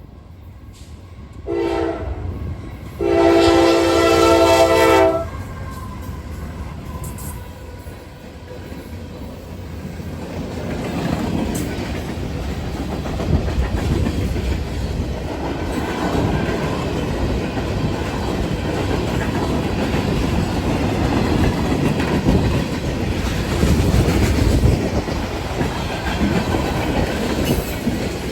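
Norfolk Southern train's horn sounds a short blast and then a longer one, the end of a grade-crossing signal. The train then passes close by, its locomotives and cars rumbling on the rails, growing louder from about ten seconds in.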